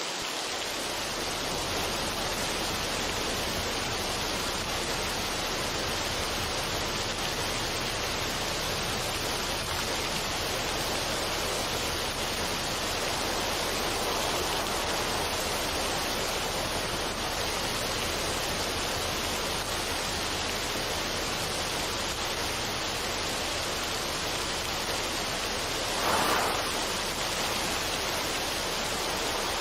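Steady, even rushing noise with the character of running water or a waterfall, and no melody. It drops out for an instant at the very start, and a brief swell comes about 26 seconds in.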